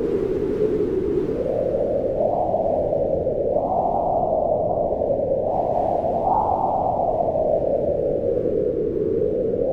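Wind blowing in slow gusts, a low moaning tone that rises in pitch from about two seconds in, is highest around six seconds, then sinks again near the end.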